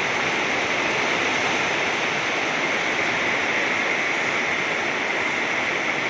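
Heavy rain falling steadily on a rooftop, an even hiss of water with no break.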